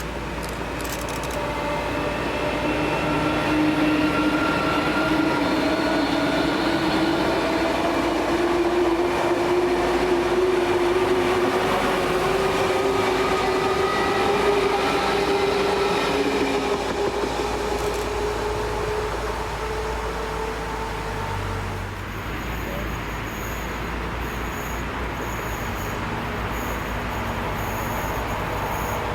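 Electric train accelerating, its motors whining in several tones that climb slowly in pitch over a rushing running noise. About 22 seconds in, the whine gives way to a steadier running sound with a faint pulsing high tone.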